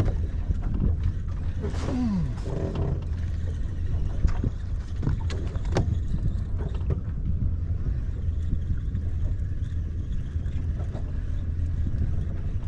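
Steady low rumble on board a fishing boat, with scattered knocks and clatters from gear being handled. About two seconds in, a short falling voice-like sound.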